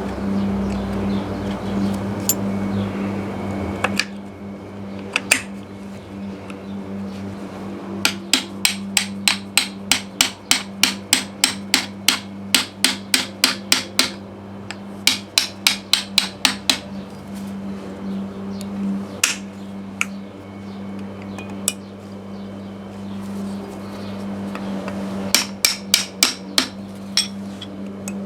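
Hammer striking metal in quick runs of light blows, about three a second, with a few single knocks between the runs.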